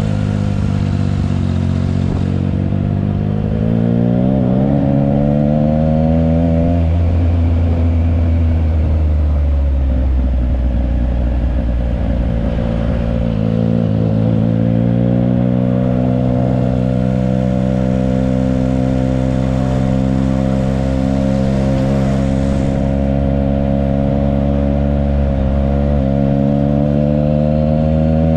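Triumph Trident 660's inline three-cylinder engine through a Yoshimura exhaust, under way. Its pitch climbs as it accelerates in the first few seconds and eases back, climbs again about a quarter of the way in, then holds fairly steady before rising slightly at the end.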